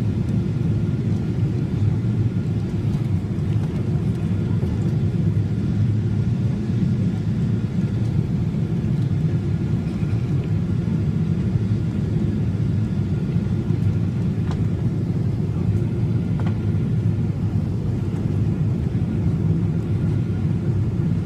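Airliner cabin noise: a steady low rumble of the jet engines and rushing air, heard from inside the cabin, with no change in level.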